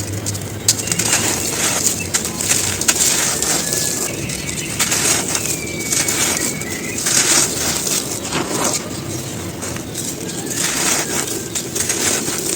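Dry, gritty cones crumbling and crunching: a run of dense, irregular crunches. A bird calls faintly in the background about halfway through.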